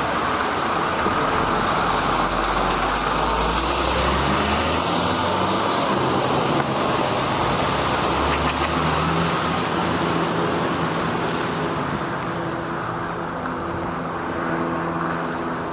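Motor traffic on a rain-wet city street: a steady hiss of tyres and spray with the low hum of car and truck engines, the deepest engine hum easing off about halfway through.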